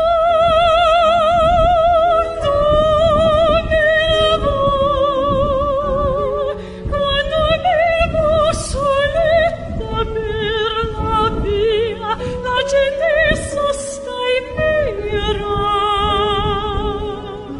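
A high voice singing in an operatic style, holding long notes with a wide, wavering vibrato and sliding between pitches.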